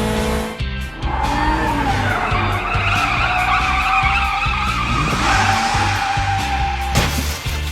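Long tyre-squeal skid sound effect, lasting several seconds, over background music with a steady low beat; a sharp click near the end.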